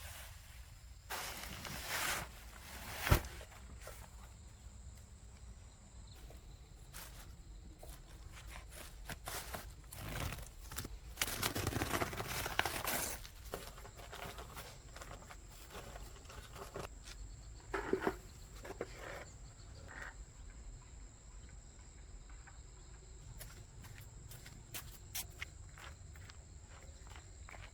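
Scattered knocks, clicks and rustling, with one sharp knock about three seconds in and a longer stretch of rustling around the middle, over a steady thin high-pitched drone.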